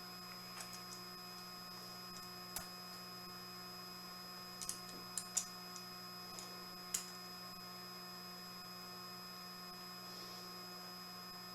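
Steady electrical mains hum, with a few faint, sharp snips of cutting spread through the middle, about five in all.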